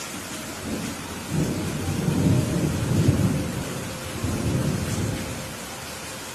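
Steady rain hissing, with a long roll of thunder rumbling in about a second in, swelling to its loudest around the middle, surging again near the five-second mark and dying away before the end.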